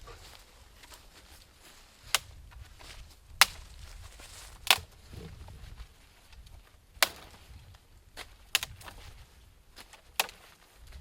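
A series of about seven sharp, single knocks, like tool strikes on wood, coming irregularly a second or two apart.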